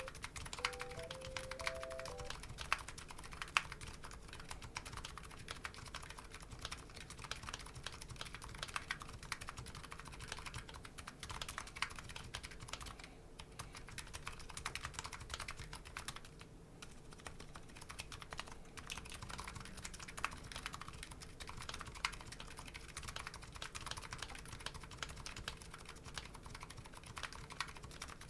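Typing on a Nuxros Kraze custom keyboard fitted with MetaKeebs MetaPulse electro-capacitive switches: a continuous, irregular stream of keystroke clicks. A short tune of a few stepped tones plays over the first two seconds.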